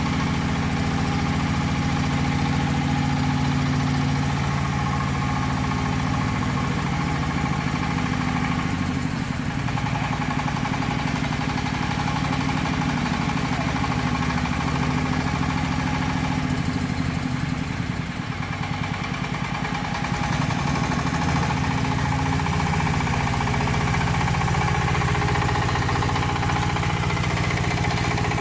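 A 40 hp crawler mini tractor's engine runs steadily throughout. Its note dips briefly about nine seconds in and again about eighteen seconds in.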